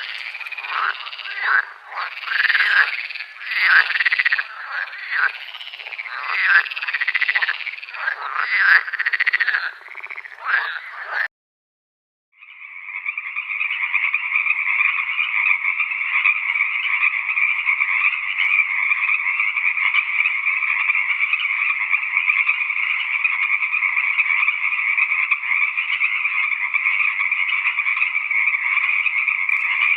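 Frogs calling: for the first ten seconds or so, a chorus of uneven, rapidly repeated croaks. After a brief silence it changes to one long, steady, unbroken trill.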